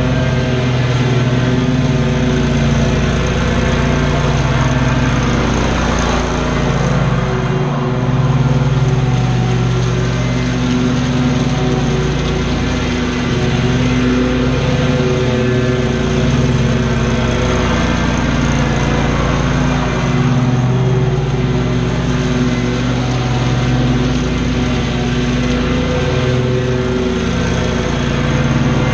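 Small gasoline engine of lawn-care equipment running steadily at high speed under load, its pitch wavering slightly.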